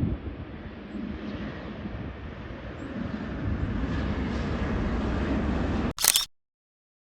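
Jet airliner engine noise: a low rumble that slowly grows louder. About six seconds in, a short loud crackle is followed by sudden dead silence for about a second.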